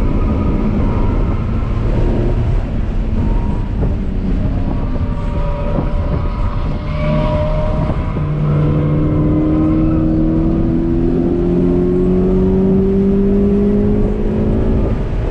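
Toyota 86's 2.0-litre flat-four engine under hard driving, heard inside the cabin over steady tyre and road noise. Its note wavers through the first half, then climbs steadily in pitch for the last several seconds as the car accelerates.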